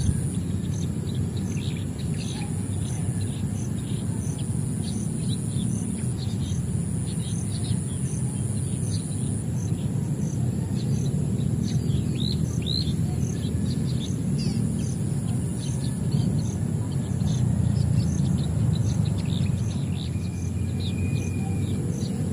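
Small birds chirping, with many short, high calls scattered throughout and thickest about halfway through and again near the end; one longer held note comes near the end. Underneath runs a steady low rumble, and a thin, continuous high whine with a faint regular pulse.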